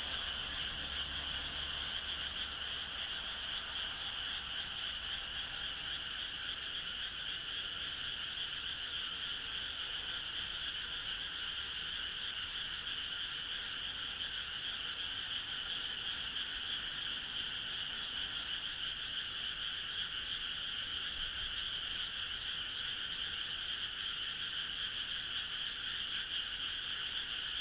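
Dense frog chorus, many frogs calling at once in a steady, unbroken wall of sound in two bands, one high and one lower.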